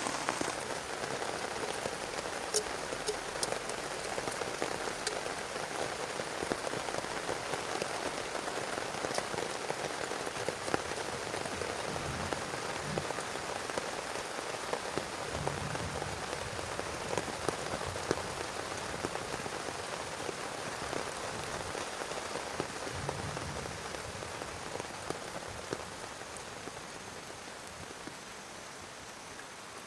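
Heavy rain falling, with many separate drops ticking through a steady hiss. It grows quieter over the last few seconds.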